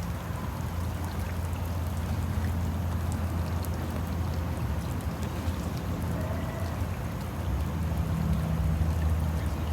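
Steady rain falling, an even hiss, over a continuous low rumble.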